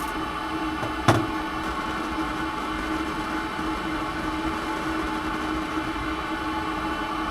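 Small engine running steadily at a constant speed, with a single sharp knock about a second in.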